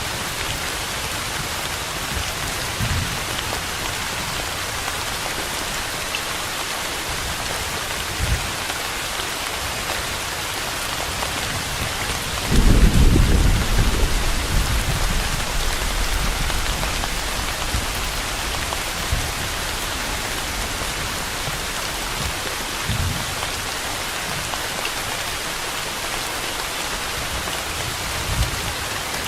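Steady rain falling as an even hiss, with a roll of thunder about twelve seconds in that is the loudest moment and fades over a few seconds; a few faint low thumps come and go elsewhere.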